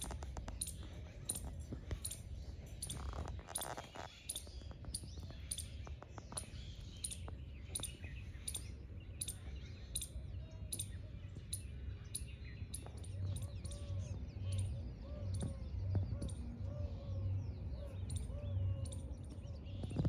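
Birds chirping: short, very high chirps repeated two or three times a second, with a lower, repeated call joining in about two-thirds of the way through.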